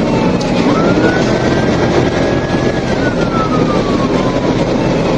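Police car siren on a slow wail: it rises quickly about half a second in, holds high, falls slowly, then rises again near the end. Under it is steady engine and road noise from a car being driven.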